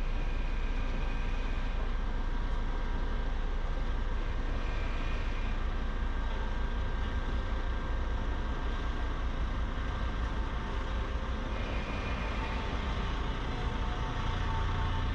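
Heavy construction machine's diesel engine running steadily, a low rumble with a faint high whine that comes and goes.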